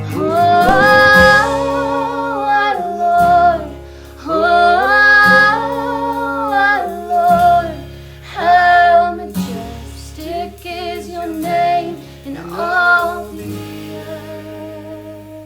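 A worship song sung by a female lead voice over band accompaniment, in several long sung phrases. The music dies away near the end.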